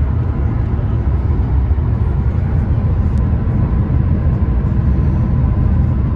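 Steady low rumble of a car driving along, heard from inside the moving car: road and engine noise.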